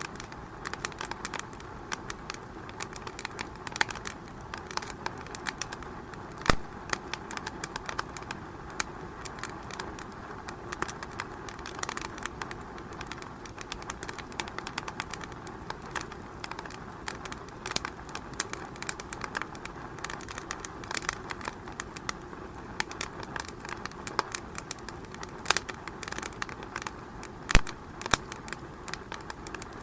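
Wood fire crackling in a fireplace: a steady hiss with many quick irregular snaps, and two louder pops, one about six and a half seconds in and one near the end.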